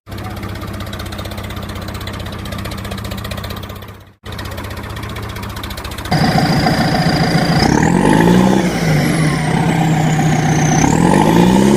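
Tractor engine running steadily, cutting out briefly about four seconds in, then louder from about six seconds in as it revs, its pitch rising and falling twice, with a high whine sweeping up and down.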